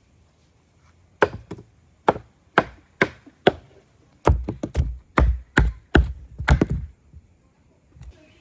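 A blade chopping: a run of sharp strokes, about half a second apart at first, then quicker and heavier from about four seconds in, stopping about two-thirds of the way through.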